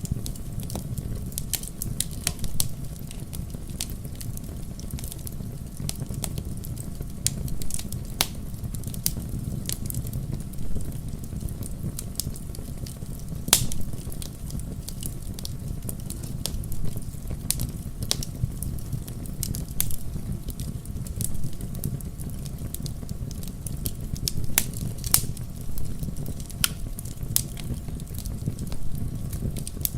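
Wood fire burning in a fireplace: a steady low rumble of flames with irregular crackles and pops throughout, one sharper pop about halfway through.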